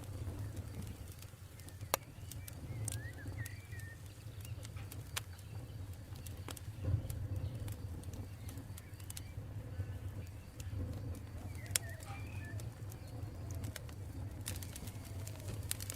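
Campfire crackling with scattered sharp pops, the loudest about 2 seconds in and near 12 seconds, over a steady low rumble from the fire. Birds call in the background, with short chirps and lower curved calls.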